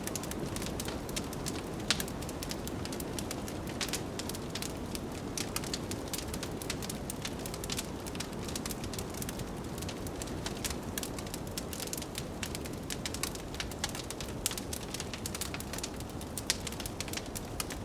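Wood fire in a fireplace crackling, with frequent small irregular pops and a sharper pop about two seconds in, over a steady low rush of blizzard wind.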